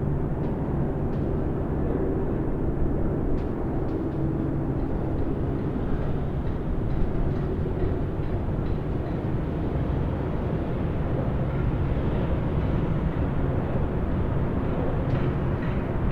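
Distant highway traffic: a steady, dense rumble of many vehicles' tyres and engines, with faint low engine tones rising and fading as vehicles pass.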